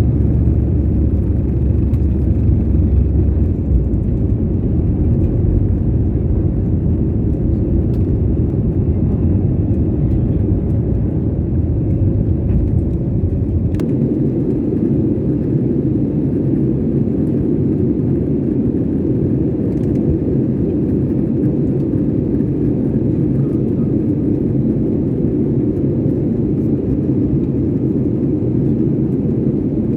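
Airliner taking off, a steady, loud jet engine and rumble. The deepest part of the rumble drops away about halfway through while the rest carries on.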